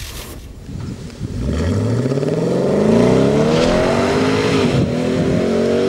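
Infiniti FX50 Vettel Edition's V8 engine accelerating hard on a circuit. The engine note rises steadily in pitch from about a second and a half in, drops briefly near the end, then holds at high revs.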